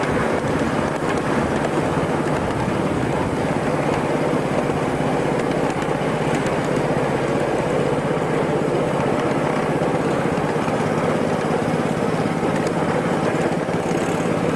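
Steady mechanical running noise with a constant low hum, from a small engine.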